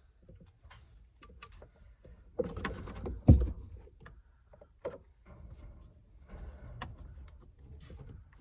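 Scattered clicks and knocks from parts and tools being handled. A burst of clatter about two and a half seconds in ends in one loud sharp knock, and sparser clicks follow.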